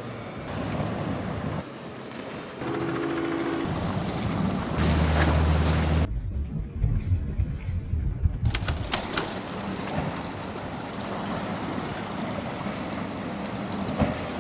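Boat engines running through waves and surf, with wind on the microphone. The sound changes abruptly every second or two, as from quick edits between shots; some stretches carry a steady low engine tone, and one about six seconds in is muffled.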